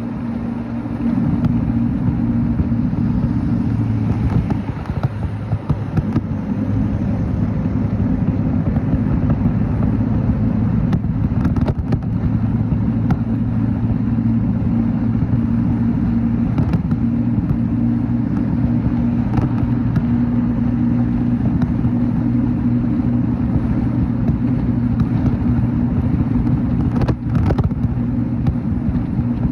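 Motorcycle engine running at a steady speed while riding, a constant hum over dense low road and wind noise.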